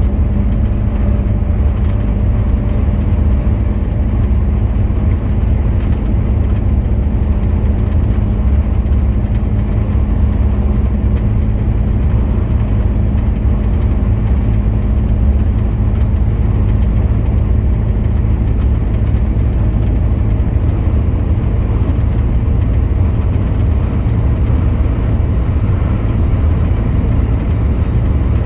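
Heavy truck driving at a steady speed: a low, continuous rumble of engine and road noise with a steady hum over it.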